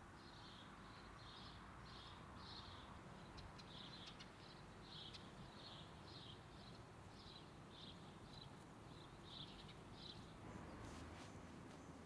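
A bird calling, a short high note repeated about twice a second, that stops about ten seconds in, over faint background hiss.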